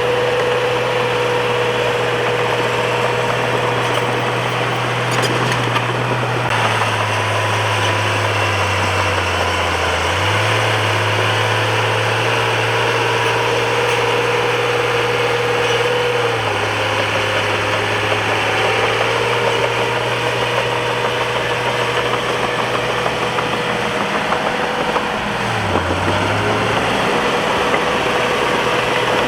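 Bulldozer's diesel engine running steadily and loud, its pitch dropping and recovering three times: for a few seconds about a quarter of the way in, again just past the middle, and briefly near the end.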